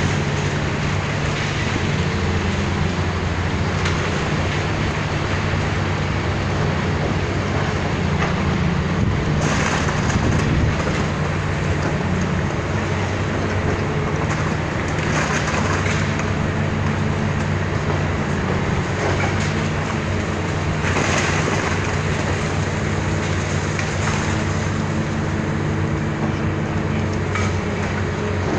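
Diesel engine of heavy demolition machinery running steadily, under a constant rough mechanical noise, with a few brief louder noisy surges about ten, fifteen and twenty-one seconds in.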